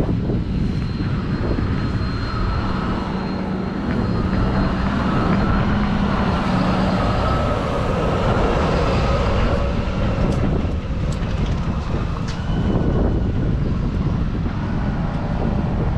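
A JCB Fastrac 4220's 6.6-litre six-cylinder diesel runs steadily, with the McHale V6 650 round baler working behind it.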